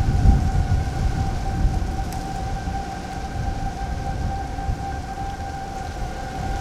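Outdoor storm warning siren holding one steady pitch, over steady rain. A low rumble underneath is loudest in the first second or two.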